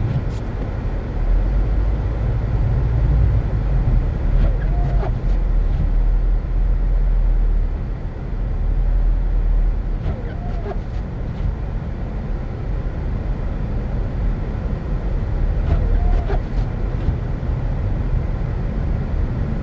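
Car driving through snow: a steady low rumble of engine and road noise, with a short faint chirp about every five to six seconds.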